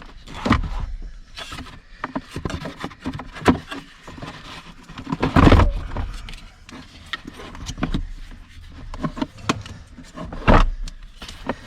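A new glass-mat (AGM) car battery being handled into its tray under a van's seat: a run of scattered knocks, clunks and clicks of the case against metal, loudest about halfway through and again near the end.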